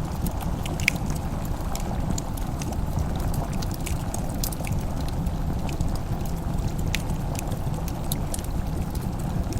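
Wood fire crackling, with scattered sharp pops and snaps over a steady low rushing sound.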